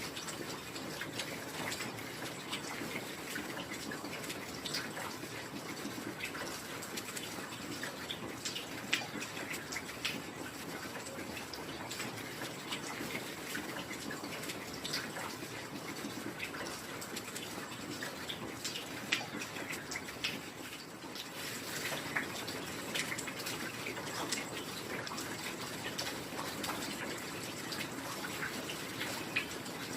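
Steady heavy rain falling, with many sharp, close drop hits scattered through the even hiss.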